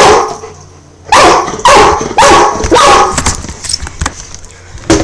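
Pet dog barking: four loud barks in quick succession, each about half a second apart, then light clicking and one more short, sharp sound near the end.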